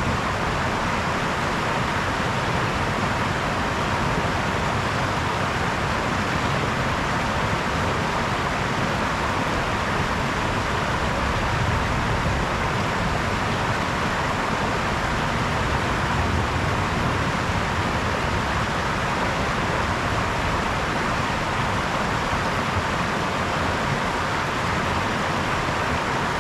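Brook water running over stones in a steady, unbroken rush.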